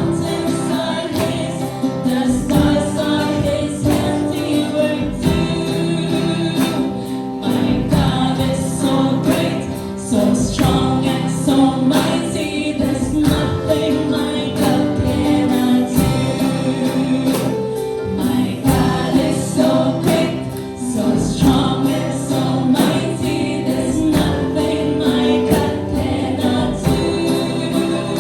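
Group of voices singing a Christian worship song in unison over a band, with a steady beat.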